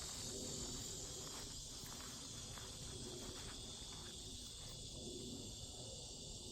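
Cicadas buzzing in a steady high chorus, with faint footsteps rustling through leaf litter that stop a little under five seconds in.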